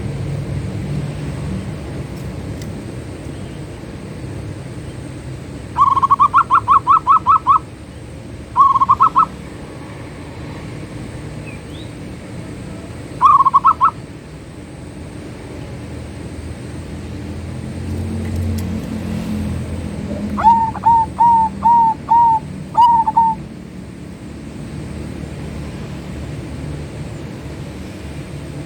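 Zebra dove (perkutut) calling: quick trains of rapid staccato cooing notes in three short bursts, then, about twenty seconds in, a slower phrase of about six notes. A steady low rumble runs underneath.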